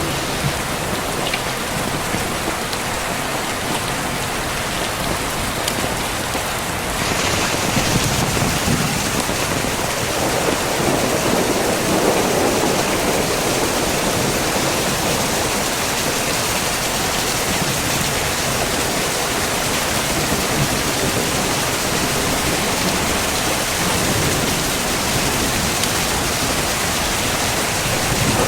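Heavy rain falling steadily and hissing on hard surfaces; it grows louder and brighter about seven seconds in.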